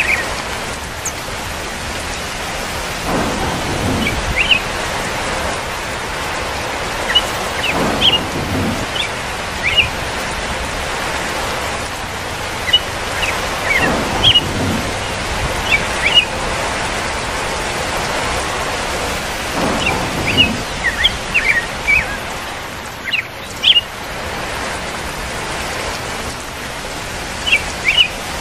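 Steady rainfall with low rolls of thunder every several seconds and short bird chirps scattered through it. It briefly dips about two-thirds of the way through.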